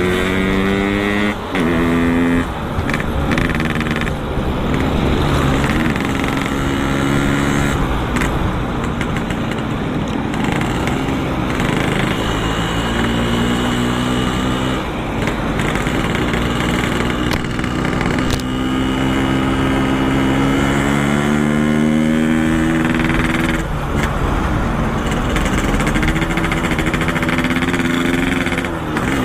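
Yamaha RX-King's two-stroke single-cylinder engine running through a Boban C33 aftermarket exhaust while riding: the engine note climbs steadily under throttle, then drops back at each gear change or throttle lift, several times over, with a steady rush underneath.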